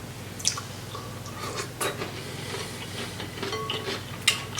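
Seafood boil being handled and eaten: a few sharp clicks and cracks of shell and dishware, about half a second, two seconds and four seconds in, over a faint low steady hum.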